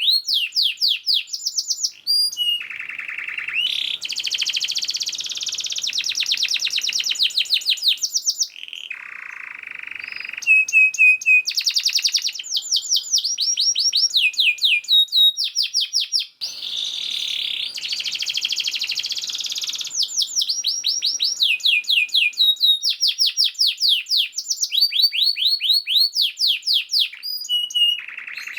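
Domestic canary singing a fast, dense song: rapid trills of repeated sweeping notes, switching to a new phrase every second or two, with a couple of lower buzzing rolls among them.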